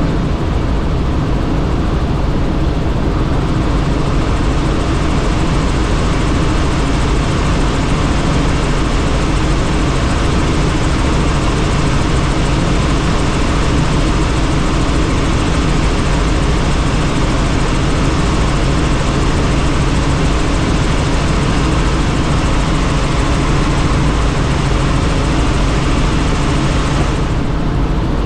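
Helicopter in flight, heard from inside the cabin: a steady drone of engine and rotor under heavy wind rush through the open doors. The hiss of the wind dips briefly near the end.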